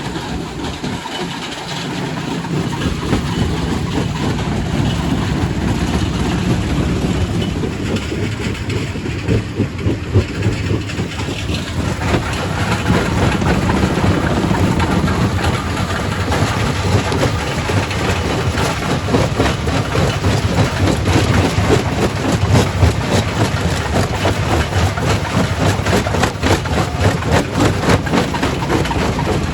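Quarry primary rock crusher running with a steady low rumble. From about twelve seconds in come dense, rapid cracking and knocking as rock is crushed.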